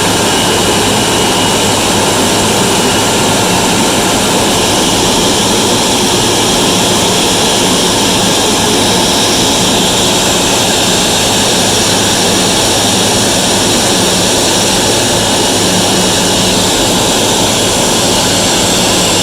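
Boeing 777-200ER's jet engines running as the airliner taxis into its parking stand: a loud, steady rush of engine noise with a faint high whine held through it.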